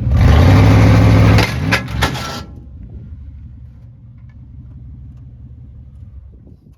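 Truck's 5.0 L Vortec V8 through a custom exhaust, revved hard for about two seconds with a couple of sharp cracks, then dropping to a low steady rumble that fades away.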